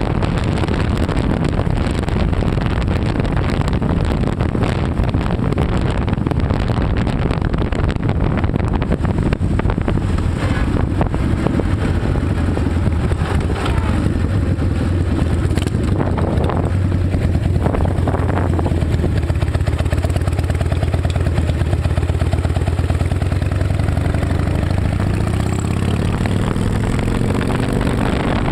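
Harley-Davidson Night Train's V-twin engine running steadily, its pitch rising in the last several seconds as it speeds up.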